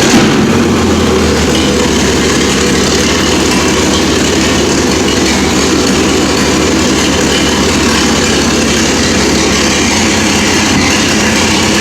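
1954 Mack gasoline truck engine idling steadily, its level settling slightly just after the start and then holding even.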